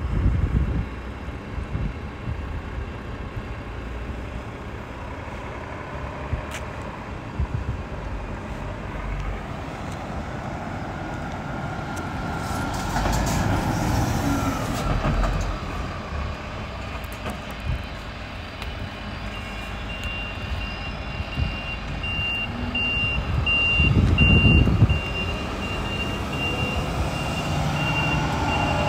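Scania P450 truck's straight-six diesel running, with a couple of louder surges. About two-thirds in, its reversing alarm starts beeping steadily: the truck is backing up.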